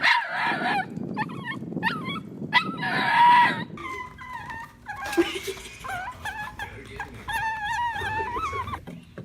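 A dog whining in high, wavering tones, loudest in the first few seconds, with a few sharp clicks among them.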